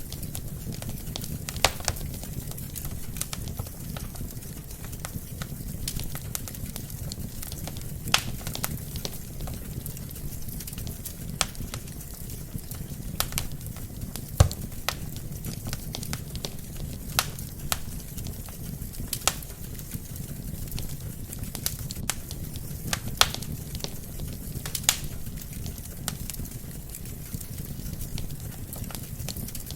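Wood fire burning in a fireplace: a steady low rumble of flames with irregular sharp crackles and pops from the burning logs, the loudest pop about halfway through.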